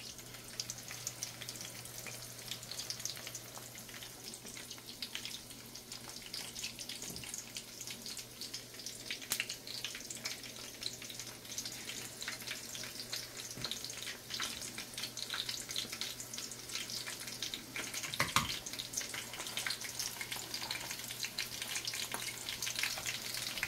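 Chicken pieces frying in hot oil in a pan: a steady crackling sizzle, with a single knock about eighteen seconds in.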